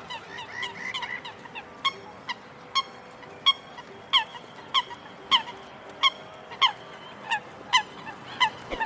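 Duck quacking in a long run of short, falling calls, about two a second.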